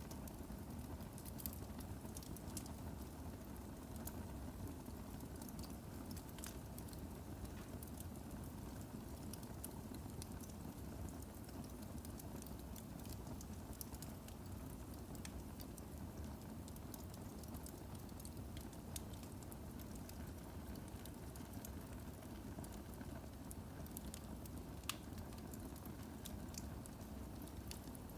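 Firewood burning in a fireplace, crackling steadily with scattered small pops and one sharper pop near the end.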